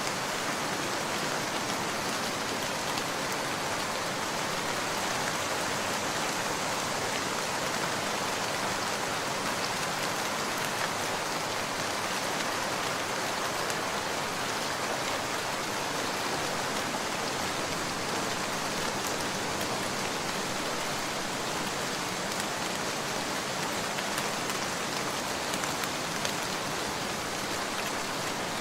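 Steady rain falling in an even, unbroken hiss, with a few faint scattered ticks.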